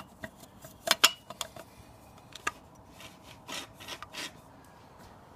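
Handling noise on metal car parts: a few sharp clicks and knocks about a second in, then short rubbing and scraping sounds.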